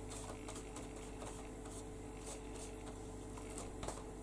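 Faint scattered ticks and light rustles of hands handling paper and craft materials, over a steady low electrical hum.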